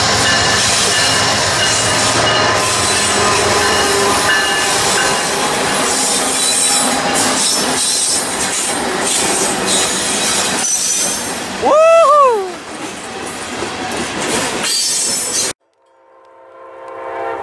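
Trains passing close by: a steady rumble with wheel and rail noise. About twelve seconds in, a locomotive horn sounds briefly, its pitch bending down as it goes by. The sound cuts off abruptly to silence, and then a train horn fades in near the end.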